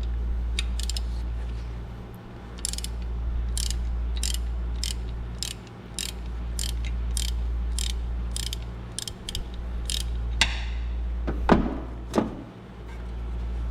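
Hand ratchet clicking about twice a second as it turns a bolt on the timing-belt tensioner, over a steady low hum. Near the end come a scrape and two sharp metal clanks, the second-to-last the loudest.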